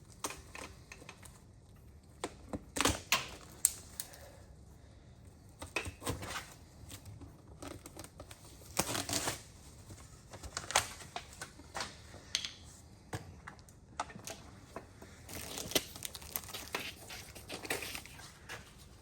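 Irregular knocks, clinks and clatter of hand tools and metal engine parts being handled and set down during an engine teardown, with a louder cluster of knocks about three seconds in and another about nine seconds in.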